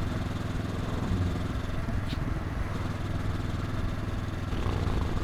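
Honda NX500's 471 cc parallel-twin engine running at a steady, unchanging speed, with one brief click about two seconds in.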